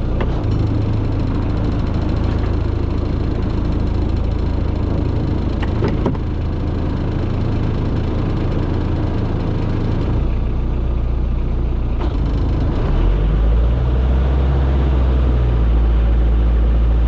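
Small boat engine running steadily underway, its low hum growing louder about thirteen seconds in.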